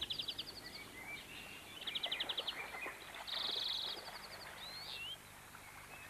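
Birds calling: several short, rapid high trills a second or so apart, with a quick whistled note about five seconds in.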